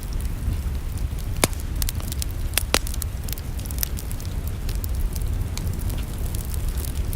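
Wood fire crackling in a fireplace: irregular sharp pops and snaps, the loudest about one and a half seconds and near three seconds in, over a steady low rumble.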